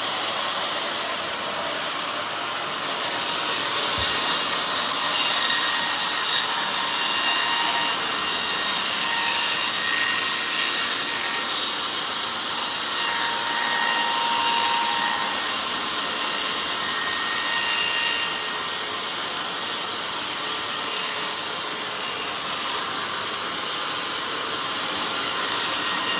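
Band sawmill blade cutting lengthwise through a log: a steady hissing rasp with a faint whine. It grows louder a few seconds in, eases off near the end, then picks up again.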